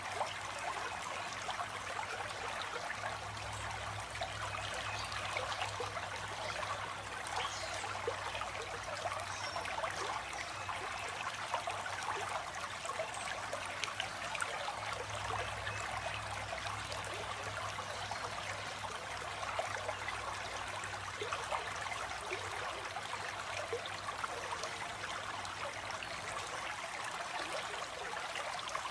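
Stream water flowing and trickling steadily, with a faint low hum underneath for much of the time.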